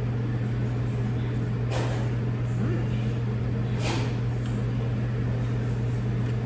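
Steady low hum with two short clicks, about two and four seconds in.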